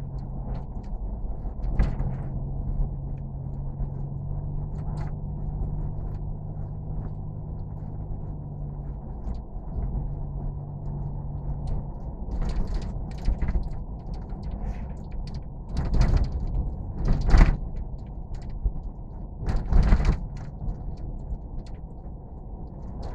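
Steady low rumble and hum of a vehicle cabin on the move, with scattered light clicks and rattles and three heavier thumps in the second half.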